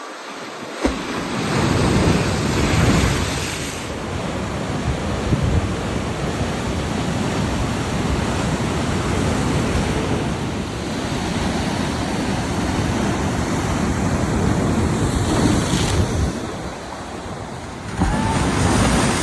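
Ocean surf breaking and rushing on the shore, rising and falling in swells, with wind buffeting the microphone.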